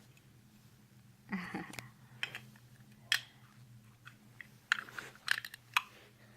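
Toy building blocks clicking and knocking against each other as they are handled and put together: a string of short, sharp clicks, coming thickest near the end.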